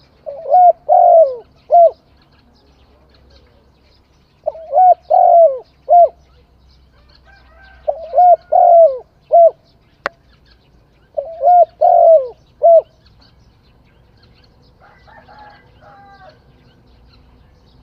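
A dove cooing its song four times, each phrase a quick run of several rising-and-falling coo notes lasting about two seconds, repeated every three to four seconds. A sharp click sounds about ten seconds in, and a quieter bird calls near the end.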